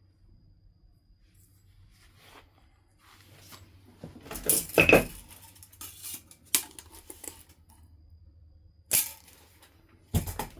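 Flint being knapped: a few separate sharp strikes on the stone, the loudest pair about halfway through with a brief ringing clink, then single cracks spaced a second or more apart.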